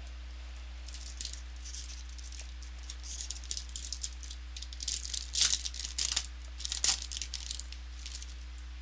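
Foil trading-card pack wrapper crinkling and tearing as a pack is opened, in irregular bursts with two sharper loud crackles in the middle.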